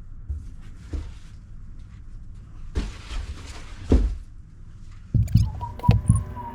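Handling noises from packing a box: a short rustle and scattered dull thumps, with a cluster of thumps near the end.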